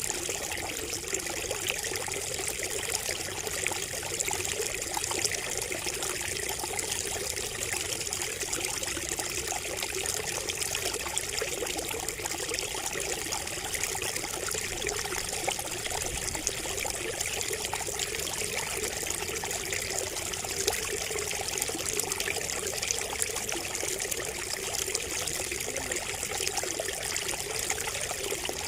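Water trickling steadily from a bamboo water feature.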